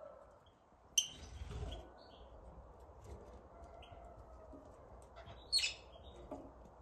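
Birds chirping: scattered short high chirps, with two louder calls, one about a second in and another near the end.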